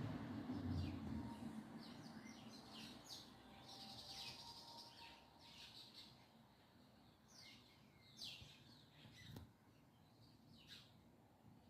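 Small birds chirping faintly, many short high chirps in quick succession. A low rumble fades away in the first second or so, and there is one sharp click later on.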